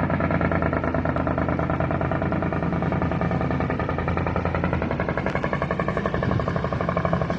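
Kenworth semi truck's diesel engine running steadily, with a fast, even pulsing exhaust note.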